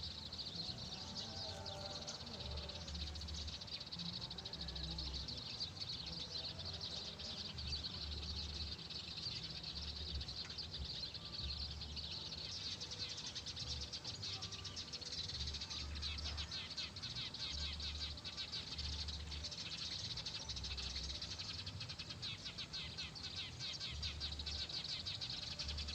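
Rice-field ambience: a continuous, dense high chirring and chirping of small creatures, with irregular low rumbles of wind on the microphone.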